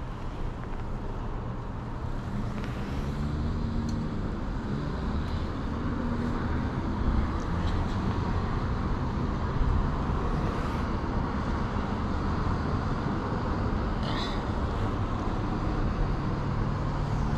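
Car engine running close by over steady traffic noise, a continuous low rumble.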